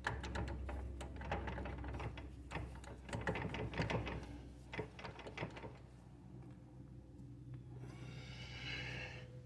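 Light, irregular metal clicks and clinks as the tractor's front drive shaft and its U-joint parts are handled and fitted onto the splines, then a brief scraping sound near the end.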